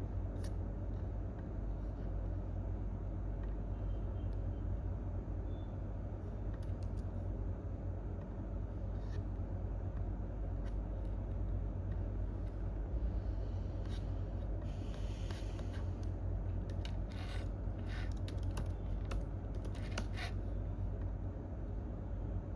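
Computer keyboard typing in scattered keystrokes, thickening into short flurries of key clicks in the second half, over a steady low background hum. A brief rustling scrape comes just before the flurries.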